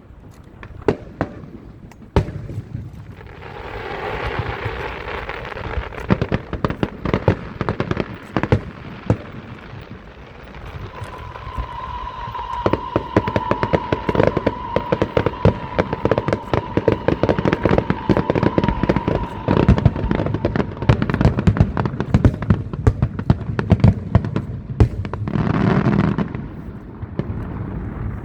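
Fireworks going off in rapid bangs and crackles, with bursts of hiss and, through the middle, a steady high whistle that lasts several seconds.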